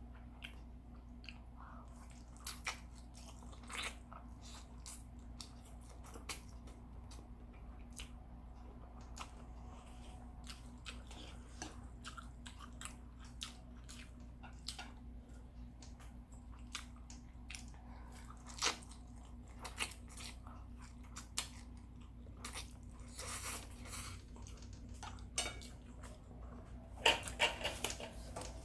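Close-up eating sounds of a person chewing stir-fried instant noodles: irregular wet mouth clicks and smacks, with a few louder, denser bursts near the end.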